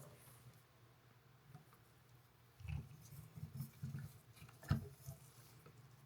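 Faint knocks and clicks of pop-up drain parts being handled and fitted to the sink from below, with a sharper click a little before five seconds in.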